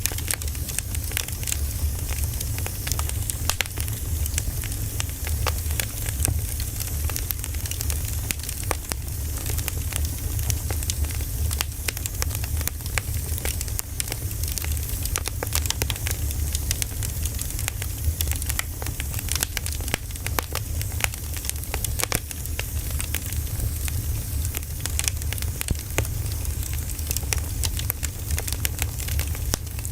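Firewood burning, crackling with frequent sharp pops and snaps over a steady low rumble.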